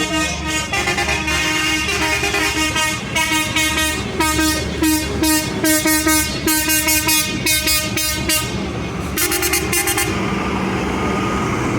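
Vehicle horns tooting in many short, rapid pitched blasts over a steady low engine hum.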